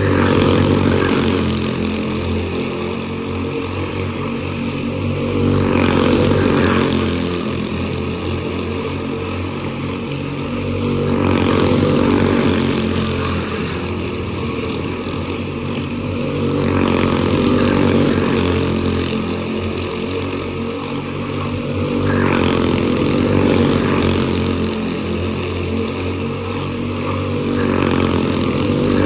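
Quarter midget race cars' small single-cylinder engines running laps on a short oval. The sound swells and fades about every five and a half seconds as the cars come around, with the pitch rising and falling.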